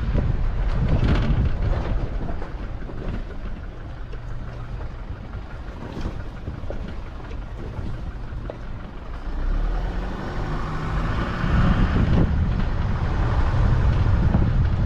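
A vehicle driving along a rough dirt track: steady engine and tyre rumble with occasional knocks, easing off for a few seconds and growing louder again near the end.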